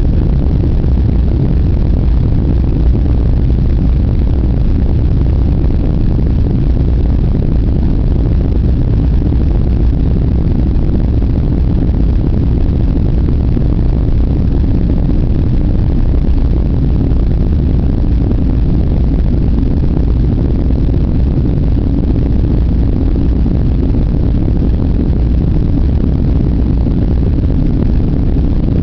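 Boeing 747 jet engines and airframe, a loud steady low rumble, heard from inside the cabin.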